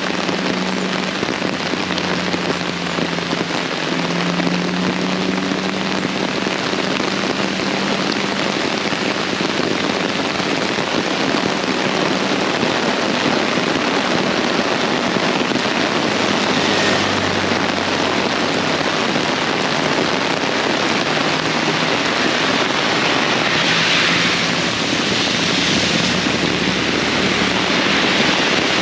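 Heavy rain pouring down steadily, with the low hum of a vehicle engine in the first several seconds.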